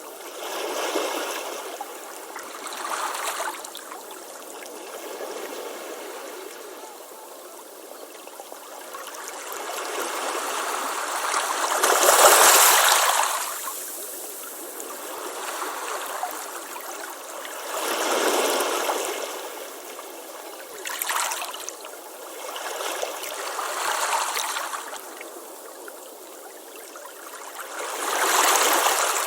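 Ocean waves breaking and washing up a beach, surging and falling back every few seconds, with the biggest wave about halfway through.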